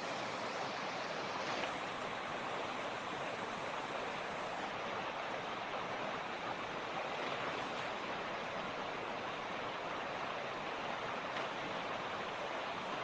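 Mountain creek: water rushing and splashing over rocks in a steady, even rush.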